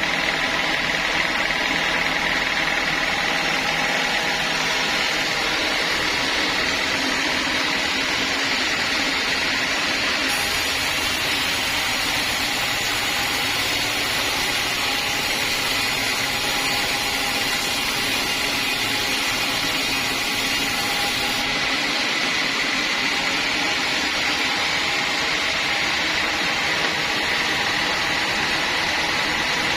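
Sawmill saw running steadily, a continuous mechanical din with a high, even whine over it.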